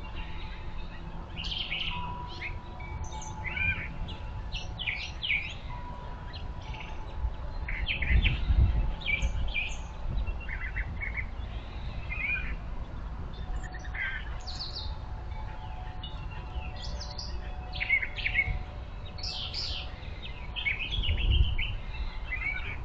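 Several backyard birds chirping and calling in quick, overlapping short notes, under a low rumble that swells twice, about a third of the way in and near the end.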